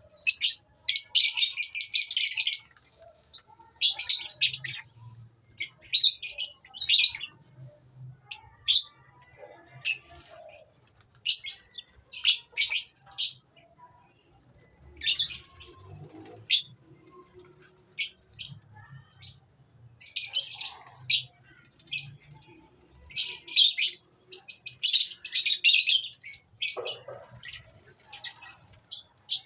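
A colony of lovebirds chattering: repeated short, shrill chirps, with dense stretches of rapid chatter near the start and again near the end.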